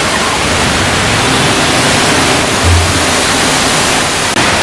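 Heavy monsoon rain pouring steadily, a dense, even hiss, with a brief low thump near the middle.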